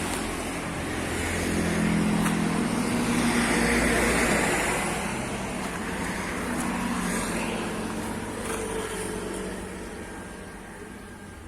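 Large bus diesel engine running. It grows louder over the first few seconds, then gradually fades toward the end.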